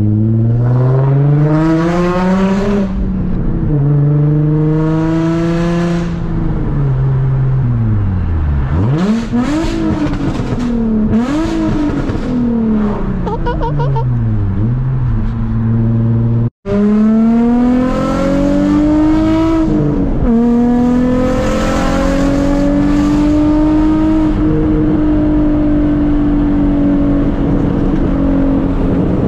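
Nissan 350Z's 3.5-litre V6 heard from inside the cabin through a Tomei Y-pipe and Invidia test pipes. It revs up through the gears with pitch drops at the upshifts, falls and rises again as it slows and picks up, then pulls once more and settles into a steady cruise near the end.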